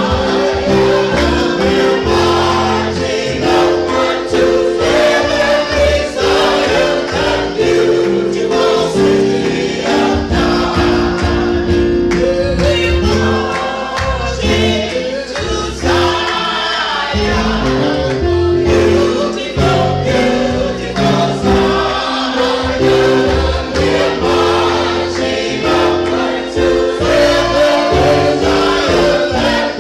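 Gospel choir singing with instrumental accompaniment and a bass line underneath.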